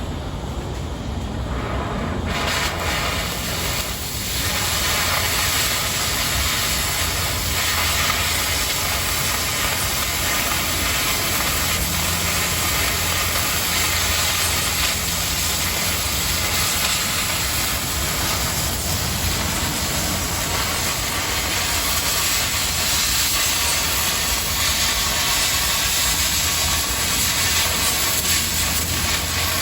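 Oxy-fuel cutting torch cutting through 1/4 inch steel plate: a steady hiss of the flame and cutting-oxygen jet, which fills out about two seconds in.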